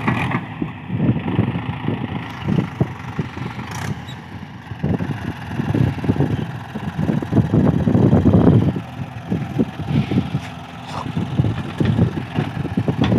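Mahindra 575 tractor's diesel engine running under the load of a heavily loaded trolley, a steady low hum with uneven rumbling surges that are loudest about eight seconds in.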